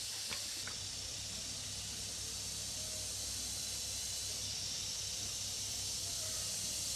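A steady hiss over a low hum, with a few sharp clicks in the first second.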